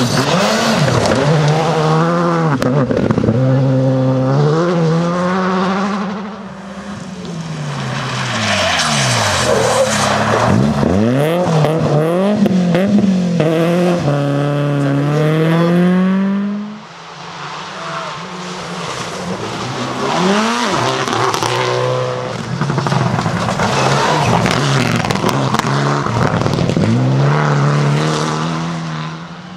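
Rally car engines revving hard, the pitch climbing and dropping over and over through gear changes and lifts as the cars come through. The sound drops briefly a little past halfway, then another car comes through.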